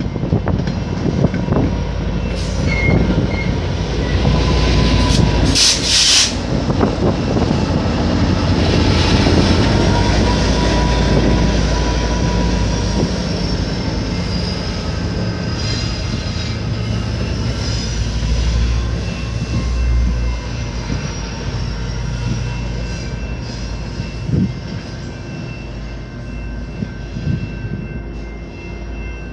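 Commuter train rolling through a station with a heavy low rumble and wheel squeal, several high wavering tones that drift in pitch. A short sharp hiss comes about six seconds in.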